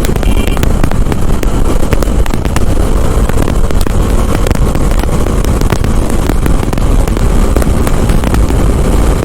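Motorcycle running at highway speed, with wind rushing over the rider's microphone: a loud, steady rumble.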